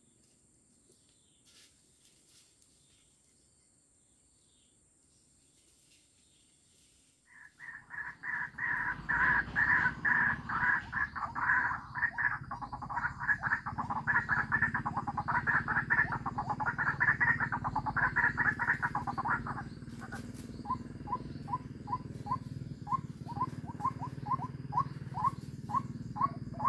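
White-breasted waterhen (ruak-ruak) calling: after a spell of near silence, a loud, fast run of calls starts about seven seconds in, then settles about twenty seconds in into a steady series of short repeated notes, about two a second.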